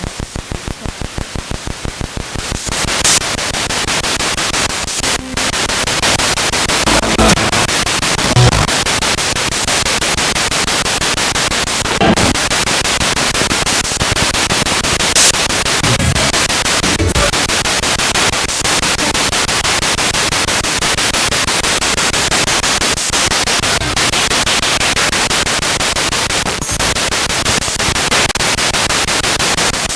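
Spirit box radio sweeping through stations: loud, continuous static hiss, choppy and pulsing fast for the first couple of seconds, with brief snatches of broadcast sound breaking through now and then.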